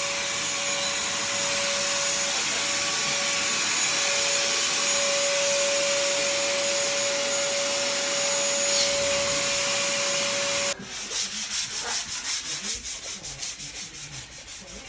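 A wall being sanded down before painting. For about eleven seconds there is a steady sanding hiss with a constant whine. It then cuts abruptly to quieter, rhythmic rubbing strokes.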